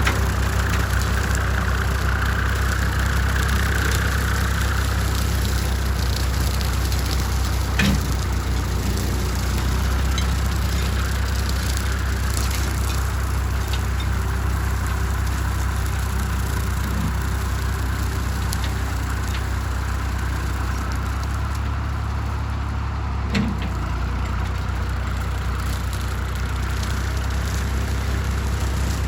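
Small tractor's engine running steadily under load, driving a large brush cutter, with two sharp knocks, one about a quarter of the way in and one near the three-quarter mark.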